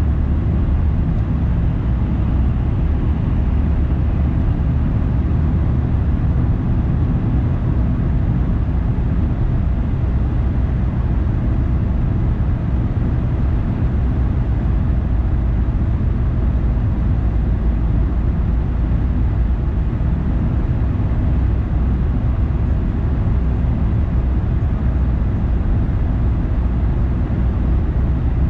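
A car driving steadily: an even, low rumble of engine and tyres on the road that does not change.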